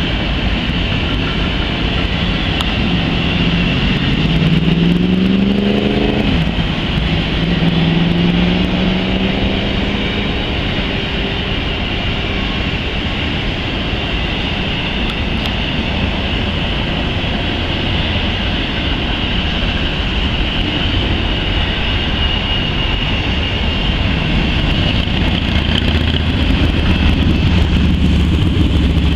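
Freight train of intermodal well cars rolling steadily past, a continuous rumble of wheels on rail with a steady high-pitched hiss above it. About three seconds in, a car engine rises in pitch as the car accelerates past, then holds a steady note for a few seconds.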